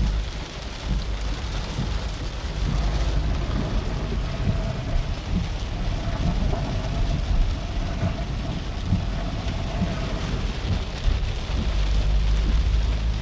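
Heavy rain falling hard, a dense patter of drops over a low rumble.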